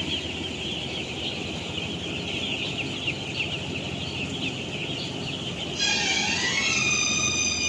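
A large flock of chicks peeping all at once, a dense, continuous chorus of short high chirps. About six seconds in, music comes in over it.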